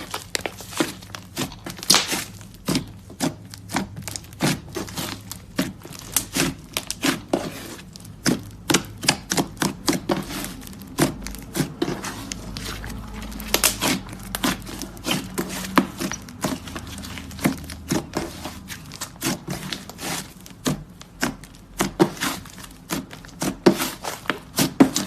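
Hands squeezing and poking clay slime, making a stream of irregular sticky clicks and pops, a few a second.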